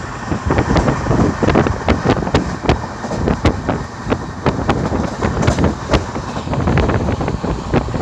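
An Indian Railways train running at speed: a continuous rumble of wheels on the track with many irregular knocks and rattles, and wind buffeting the microphone.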